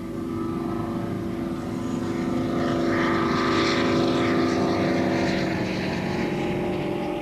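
Class 55 Deltic diesel-electric locomotive running under power, its twin Napier Deltic two-stroke engines giving a steady multi-tone drone. The sound swells to its loudest about halfway through and then eases slightly.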